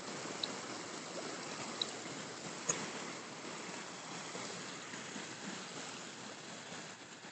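Shallow, low summer river flowing over lava rock: a steady rushing hiss of water. Two short high chirps come in the first two seconds, and a single sharp click a little under three seconds in.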